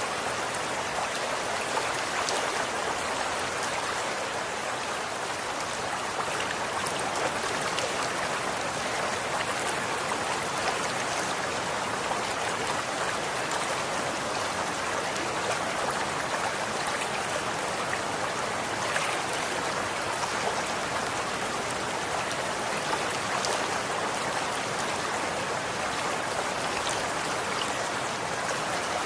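Running water flowing steadily, a continuous even rushing with faint small splashes.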